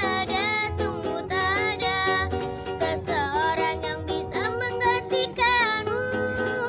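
A child's voice singing a melody over a strummed ukulele, with a low beat under it.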